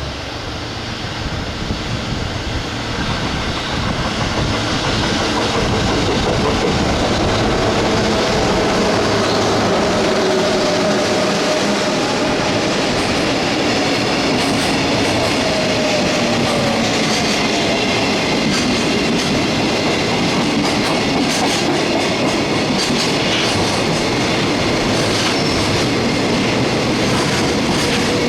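Long freight train passing through a station: the rumble builds over the first few seconds, then wagons roll by steadily with clickety-clack over rail joints, rapid clicks in the second half, and a faint wavering wheel squeal.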